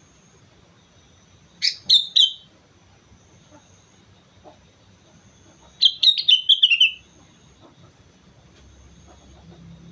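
Sooty-headed bulbul singing: a short phrase of three bright, clear notes, then a few seconds later a longer run of quick notes falling in pitch.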